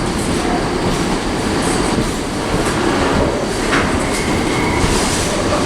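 Wagons of a Freightliner freight train rolling slowly past on the rails, a steady rumble with occasional clicks.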